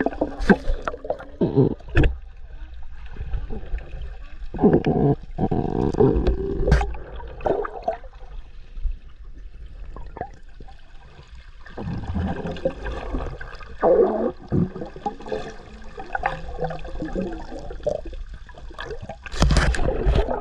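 Water sloshing and gurgling around a snorkeler's camera as it moves through the surface, in irregular surges with bubbly spells.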